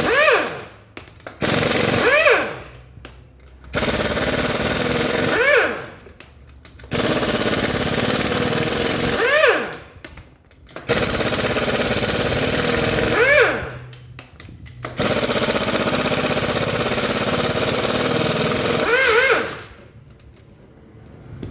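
Pneumatic impact wrench hammering lug nuts loose, in a series of rattling bursts of one to four seconds with short pauses between. Each burst ends with a whine that rises and falls as the tool spins free.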